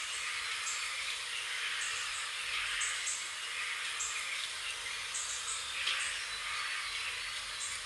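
Birds chirping outdoors over a steady background hiss, with short high chirps recurring about once a second.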